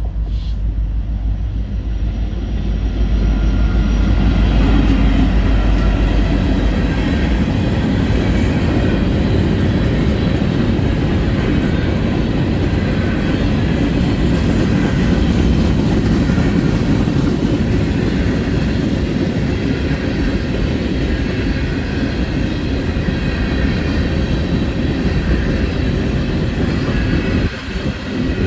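Norfolk Southern freight train passing close by: a deep diesel locomotive rumble for the first several seconds, then the steady rolling rumble of freight cars on the rails.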